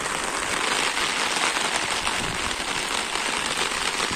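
Steady rain falling on wet ground, an even hiss with no let-up.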